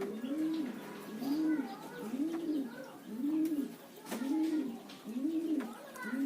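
Spotted dove (terkukur) cooing: a steady run of low coos, each rising and falling in pitch, about one a second. Faint higher chirps from small birds sound over it.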